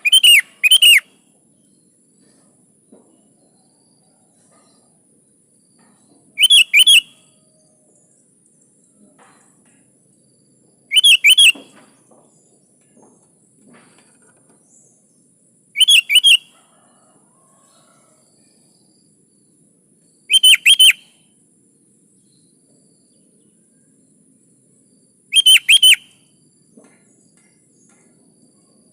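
Sooty-headed bulbul calling: a short phrase of two or three quick rising whistled notes, repeated six times about every four to five seconds.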